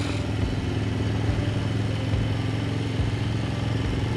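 Motorcycle engine running steadily while riding. There is a brief burst of hiss right at the start.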